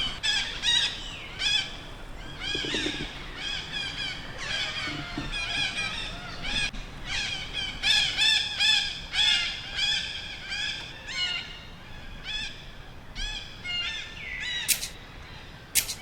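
Baby monkey crying: a steady run of short, shrill, arching cries, about two a second, with two sharp clicks near the end.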